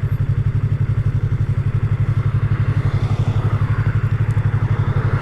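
Yamaha MT-03 motorcycle engine idling with a steady, even pulse, the revs holding level.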